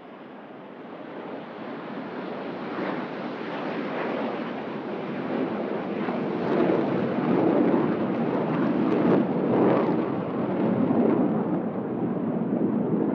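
Fighter jet flyover: the jet roar swells steadily over the first several seconds, then stays loud with a rough, crackling rumble.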